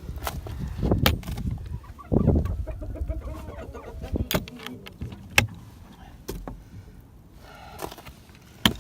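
Chickens clucking in a coop, with faint calls here and there. Several sharp knocks and clicks of handling noise are mixed in.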